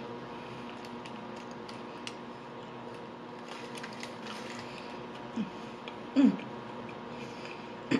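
Close-miked eating sounds: small wet mouth clicks as a chicken nugget is bitten and chewed. About five and six seconds in come two short hummed 'mm' sounds, falling in pitch, over a steady faint hum.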